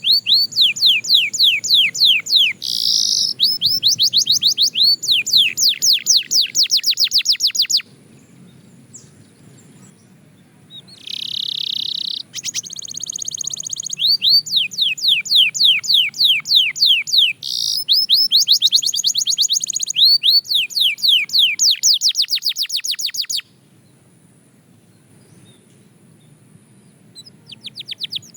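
Canary singing long phrases of fast trills made of quick falling notes, with a short held note partway through. Two pauses of a few seconds break the song.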